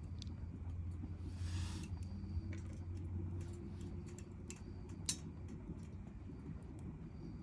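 Wood campfire crackling: scattered sharp pops over a low steady rumble of the fire, with a brief hiss about a second and a half in and the loudest pop about five seconds in.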